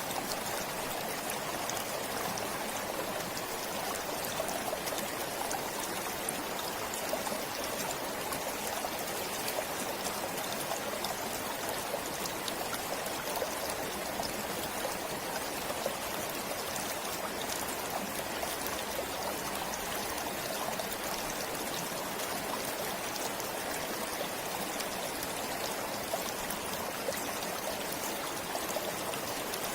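Forest stream flowing steadily, an even, unbroken rush of water with small splashes.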